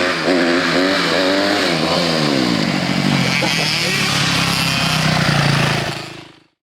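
Dirt bike engine revving in quick blips, its pitch swinging up and down, then settling to a steadier lower note before cutting off suddenly.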